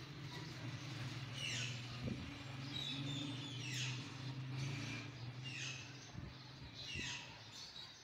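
A bird calling over and over, each call a quick note sliding down in pitch, repeated roughly once a second, over a steady low hum that fades in the second half.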